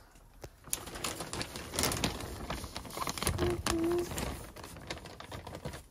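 Irregular clicks and taps of fingers pressing and handling a washing machine's buttons and controls, with a brief hum of a child's voice a little past the middle.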